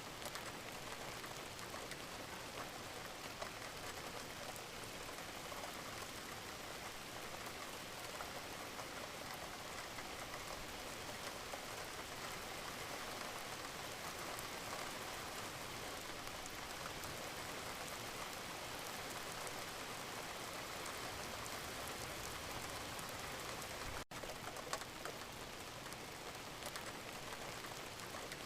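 Wood fire crackling in a fireplace: a steady hiss dotted with many small pops and snaps, cutting out for an instant near the end.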